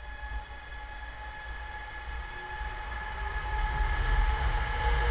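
An electric multiple unit running slowly into a station platform, its low rumble growing steadily louder as it draws close, with a steady whine from its electrics.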